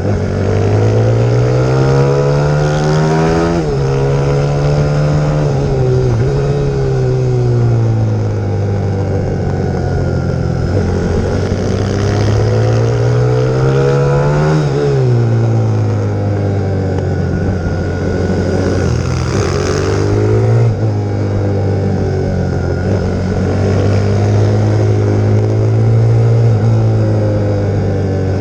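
YX150 pit bike's single-cylinder four-stroke engine running hard, its pitch climbing slowly under acceleration and then dropping sharply twice as the throttle closes, with smaller dips in between.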